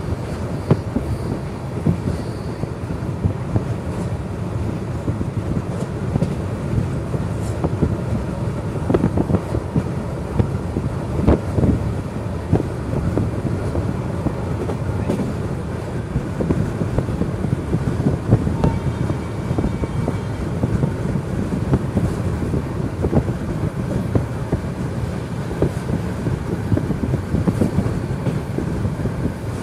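Train running at speed, heard from on board: a steady rumble of wheels on the rails with irregular clacks and knocks over the track.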